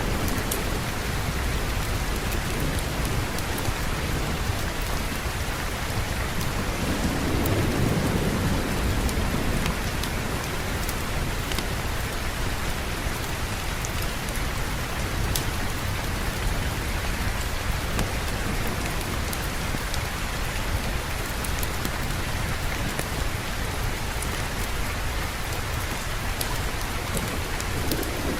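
Steady heavy rainfall, with a low rumble of distant thunder swelling up and dying away about seven seconds in. Faint sharp ticks are scattered through it.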